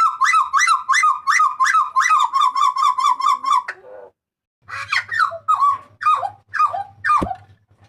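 Hooded butcherbird calling loudly: a fast run of sharp, repeated notes, about five a second, for nearly four seconds, then after a short pause a slower series of downward-sliding notes, about two a second.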